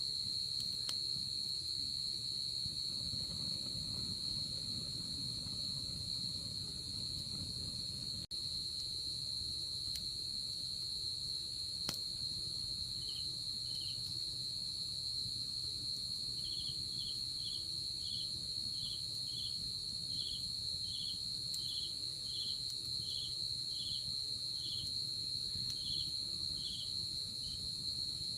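Night insects calling: a continuous high, steady trill runs throughout. From about halfway, a second insect chirps lower in a regular pulse of about two chirps a second, with a couple of faint clicks along the way.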